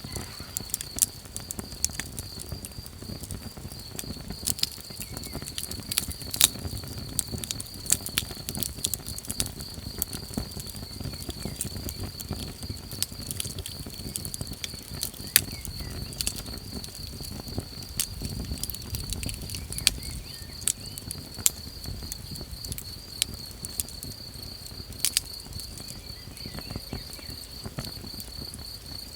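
Small wood campfire crackling, with frequent sharp pops and snaps over a low rumble, and a steady high insect trill running underneath.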